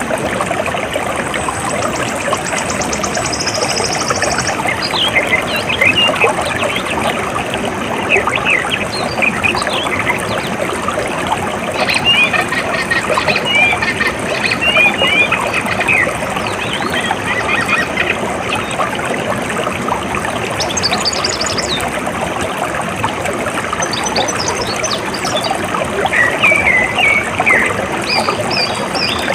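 Water running steadily, with birds chirping over it in scattered bursts. A high, rapidly pulsing trill sounds in the first few seconds.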